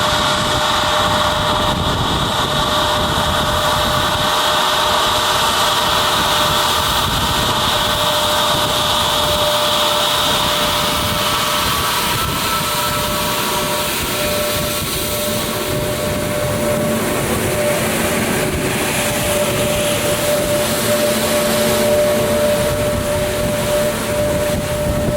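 Jet airliner engines running loudly, a steady whine over a rushing roar; the highest part of the whine fades about halfway through.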